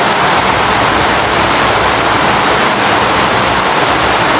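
Heavy storm rain pouring down, a loud, steady, even hiss.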